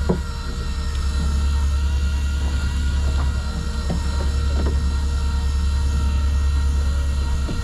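Fishing boat's engine running steadily: a loud low drone with a steady whine above it and a few light knocks.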